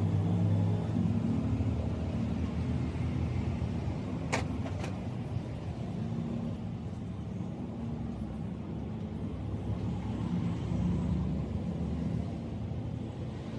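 A steady low mechanical rumble with a hum in it, and two sharp clicks close together about four seconds in.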